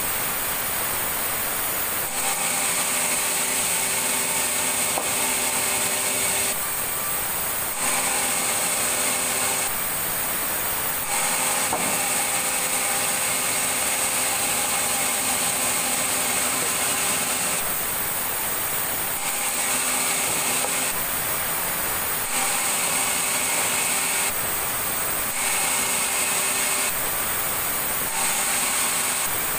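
Sawmill saw running and cutting timber: a steady mechanical whine with a high hiss, its tone shifting abruptly every few seconds.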